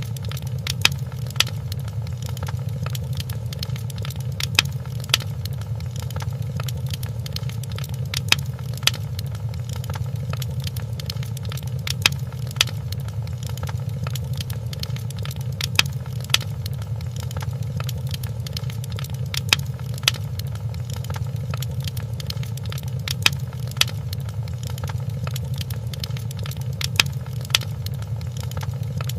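Wood fire crackling in a fireplace: sharp pops and snaps over a steady low rumble of flame. Louder pops come in pairs about every four seconds.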